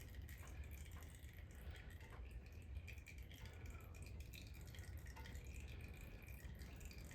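Faint dripping of engine oil draining into a drain pan, over a low steady hum.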